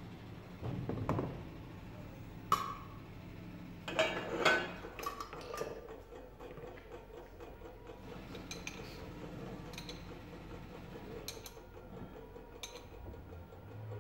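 Metal hand tools and car parts clinking and knocking against each other in short, irregular strikes, several close together in the first half and then sparser.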